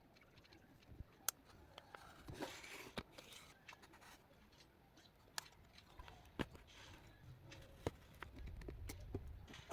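Faint, scattered clicks and taps of small tools and parts being handled during an iPhone XR screen replacement, with a brief scraping rustle about two and a half seconds in.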